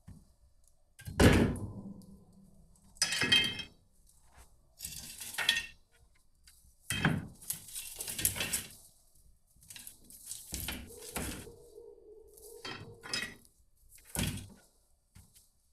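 Hard objects being handled and set down: a run of separate knocks and clatters, the loudest about a second in, with a short ringing note about two thirds of the way through.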